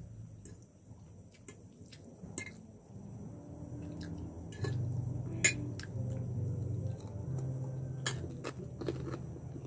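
Close-up eating sounds: crispy fried chicken and pork being torn by hand, bitten and chewed, with scattered sharp crackles and mouth clicks. The loudest crunches come about five and a half and eight seconds in, over a low hum.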